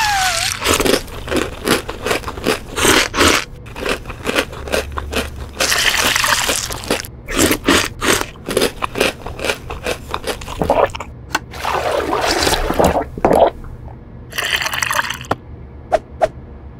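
Cartoon eating sound effects: a quick run of crunches of cereal rings being chewed and a spoon scraping the bowl, with wet slurps of milk.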